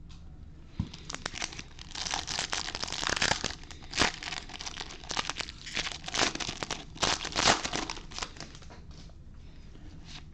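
A trading card pack wrapper being torn open and crinkled, with cards shuffled in the hand: irregular crackling for several seconds, loudest about four seconds in and again near the seven-and-a-half-second mark.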